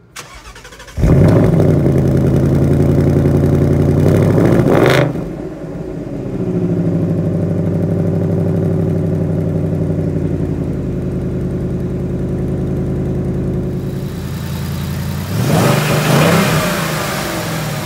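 Supercharged 5.0 L Coyote V8 of a 2019 Mustang GT, fitted with a Ford Performance supercharger, firing up about a second in. It flares to a loud high idle for about four seconds, then drops and settles into a steady idle, running on the first start after the supercharger install.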